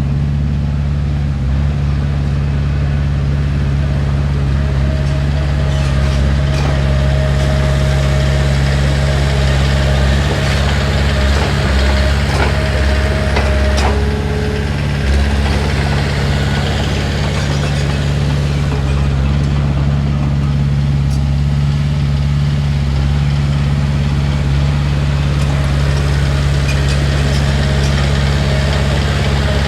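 Komatsu D31P bulldozer's diesel engine running steadily with a low, even drone. A faint thin whine sits over it for several seconds in the middle.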